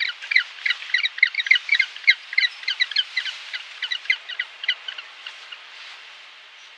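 A fast run of short, high chirping animal calls, several a second, over a steady background hiss; the calls thin out and stop shortly before the end.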